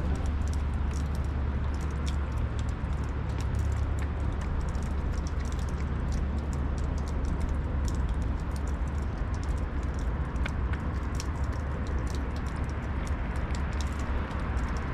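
A cat crunching dry food: irregular small clicks and crunches over a steady low rumble.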